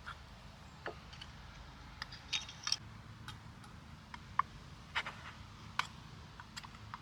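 Irregular light clicks and taps of small objects being handled, about a dozen over several seconds, over a faint steady low hum.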